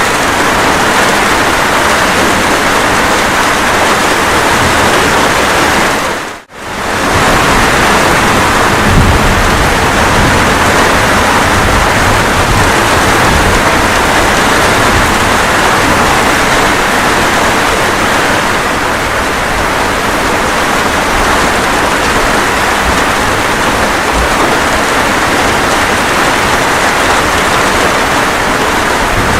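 Steady rain with thunder, a continuous even hiss of falling rain with low rumbles underneath around eight to ten seconds in. The sound cuts out for a moment about six seconds in and comes straight back.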